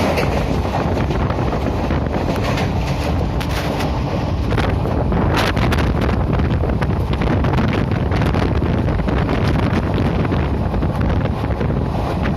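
Moving train running at speed: a steady rumble with frequent rattles and knocks, and wind buffeting the microphone.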